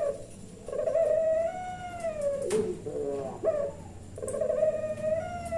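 Puter pelung dove cooing: two long drawn-out coos, each held on one note and then dropping in pitch at the end, with a few short broken notes between them.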